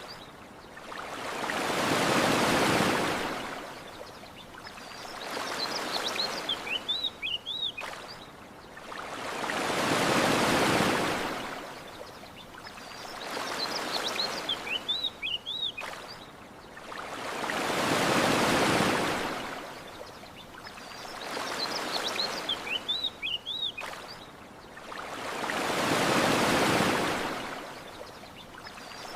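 Ocean waves washing onto a shore in slow swells, the biggest about every eight seconds, with small birds chirping high in the pauses between waves.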